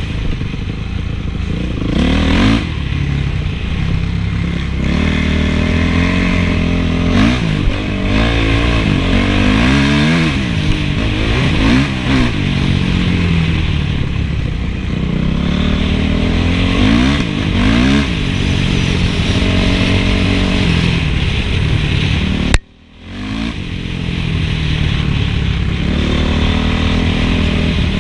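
Honda CRF450's single-cylinder four-stroke engine revving up and down again and again as the motocross bike is ridden. About three-quarters of the way through, the sound breaks off for a moment and then the engine comes back.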